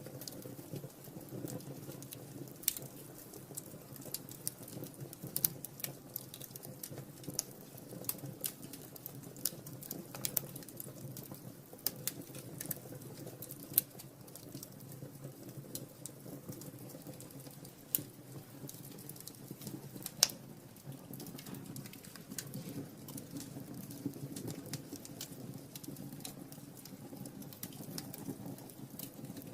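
Wood fire burning in a fireplace: irregular sharp crackles and pops over a steady low rush of flame, with the loudest pop about twenty seconds in.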